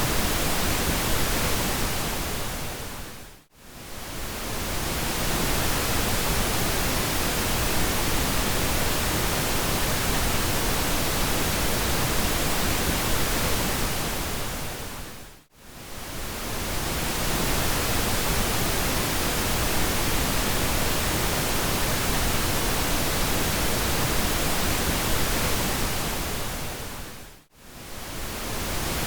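Steady pink noise, an even hiss spread across all pitches. About every twelve seconds it fades briefly to near silence and swells back in, three times in all.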